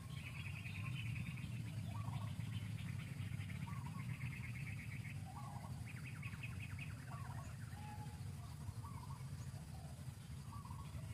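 Birds calling: several rapid trills of a second or two each and scattered short chirps, over a steady low rumble.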